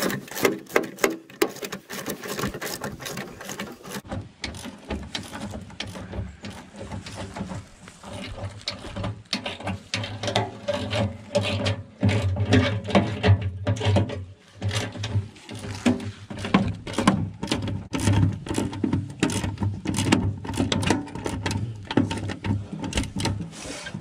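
Rapid, irregular mechanical clicking and clatter of tools at work, over a steady low hum.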